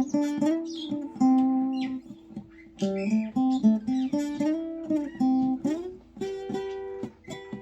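Acoustic guitar playing a picked instrumental passage, single notes and chords struck one after another and left ringing.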